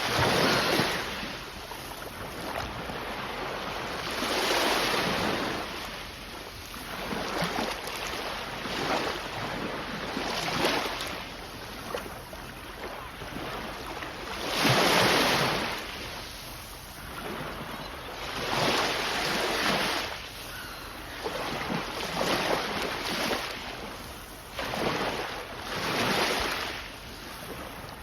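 Sea waves washing onto the shore, one after another every four seconds or so, each swelling and fading away, the loudest about halfway through.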